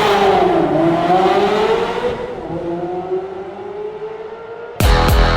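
Ferrari 360's flat-plane V8 through a Tubi exhaust, revving up and down, then fading and slowly rising in pitch as it pulls through a gear. About five seconds in, loud electronic rock music starts abruptly.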